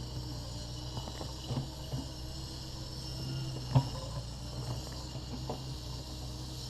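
Takeuchi TB260 excavator's diesel engine running steadily, with a few sharp clanks and knocks; the loudest comes about four seconds in.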